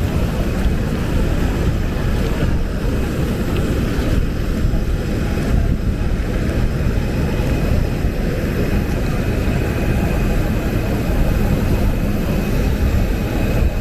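Steady aircraft noise on the ground: a loud, even low rumble with faint steady high whines above it.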